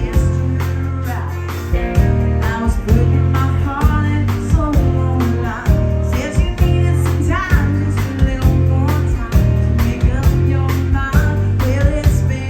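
A band playing with a singer: a sung melody over guitar, a steady bass line and a regular drum beat.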